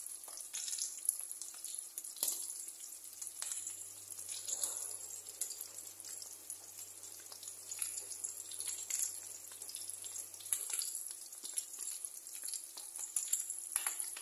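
Battered small fish sizzling in hot oil in a frying pan: a steady high hiss with scattered sharp pops and crackles.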